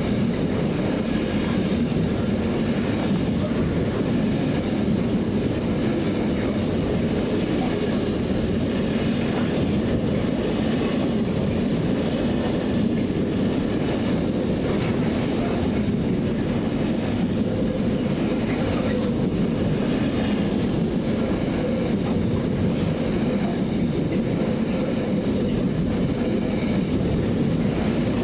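Steady low rumble of a vehicle in motion, with a few brief high-pitched squeals scattered through it.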